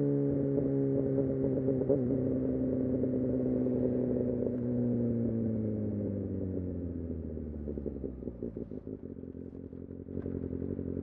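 Kawasaki Ninja ZX-6R inline-four engine slowing down: its pitch falls over a few seconds as the bike decelerates, then settles into a lower, steadier running after a short click near the end.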